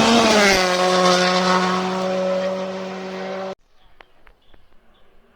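Rally car passing close by at speed, its engine note dropping in pitch as it goes past and then holding steady as it drives away. The sound cuts off abruptly about three and a half seconds in, leaving only a few faint clicks.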